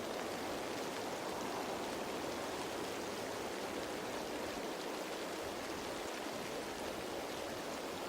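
Steady rain falling on leaves: an even hiss of drops with faint fine ticks.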